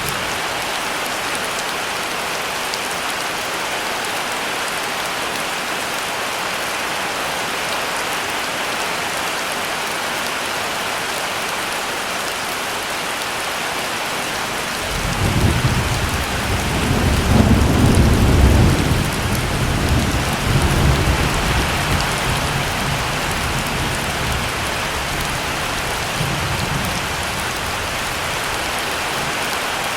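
Steady heavy rain, with a long low rumble of thunder that swells about halfway through, peaks a few seconds later and slowly dies away.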